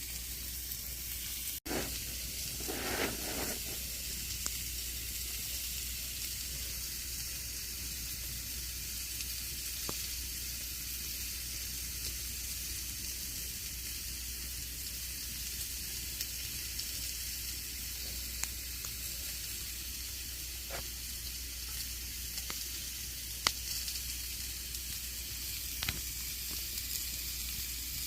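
Campfire burning: a steady hiss with scattered sharp pops and crackles from the burning wood.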